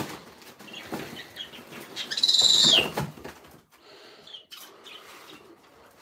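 A caged pet bird gives one loud, high-pitched squawk about two seconds in, lasting just under a second and dropping in pitch at the end. Scattered knocks and rustling surround it.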